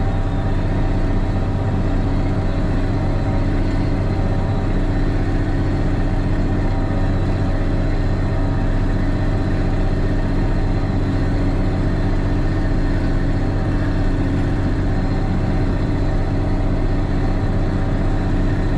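Case 2670 four-wheel-drive tractor's diesel engine running steadily under load while pulling a disc chisel through the soil.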